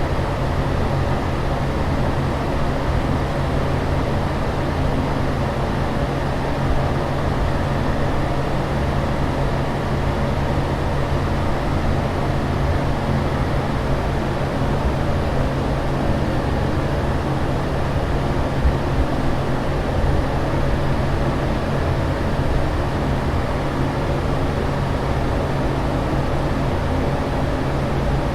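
Airliner cabin noise in flight: a steady, even rush of air and engine rumble, heaviest in the low end, with a faint steady hum.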